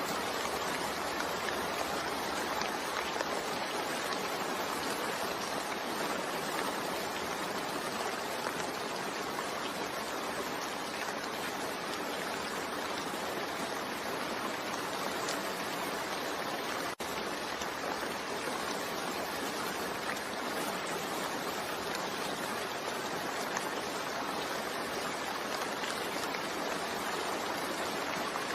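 Steady rain falling, an even hiss without breaks, with a momentary dropout about two-thirds of the way through.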